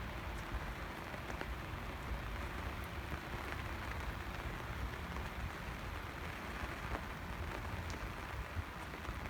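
Steady rain falling, with a few scattered drop ticks.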